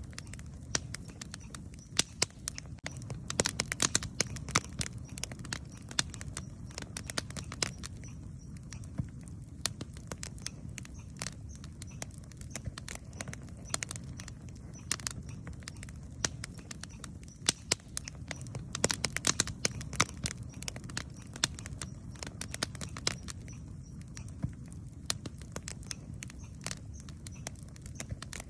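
Wood campfire crackling, with dense, irregular pops and snaps over a low, steady rumble.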